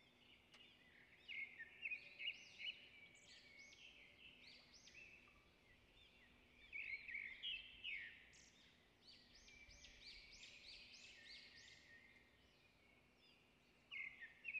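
Faint chirping and twittering of small birds, in several short bursts of quick notes that rise and fall in pitch.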